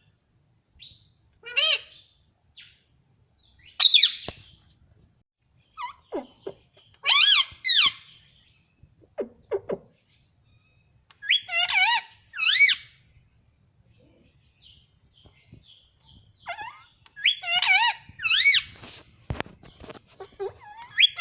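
Pet ring-necked parrot calling: a string of short chirps and squawks with bending pitch, some coming in pairs, every second or few.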